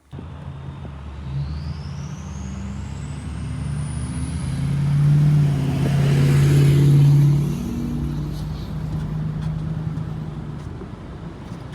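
Motor vehicle engine running with a steady low hum that grows louder to a peak a little past midway, then eases off. A faint rising whistle sounds in the first few seconds.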